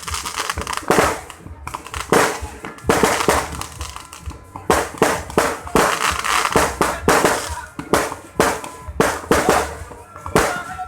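Fireworks and firecrackers going off: many sharp bangs and crackles in quick, irregular succession, several a second, some with a brief echo after them.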